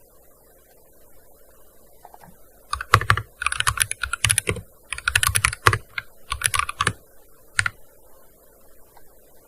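Typing on a gaming keyboard: a few seconds in, several quick runs of keystrokes last about four seconds, ending with a single key press.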